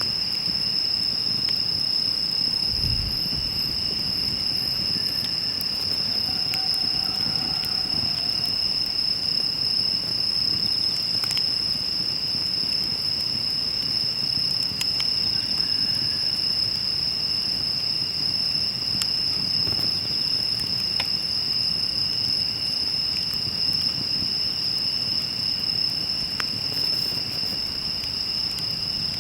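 A steady, unbroken high-pitched insect chorus, with a wood campfire crackling now and then with sharp little pops over the low rush of the flames.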